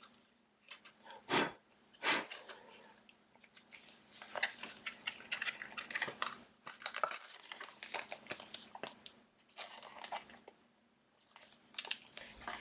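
Trading card being handled in its plastic holder: scattered rustling and clicking of card and plastic, with two louder, sharper sounds about a second and a half and two seconds in.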